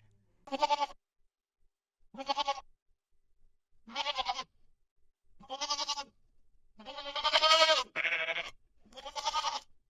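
Goat bleating over and over: about seven wavering bleats with short gaps between them, the longest and loudest about three-quarters of the way through.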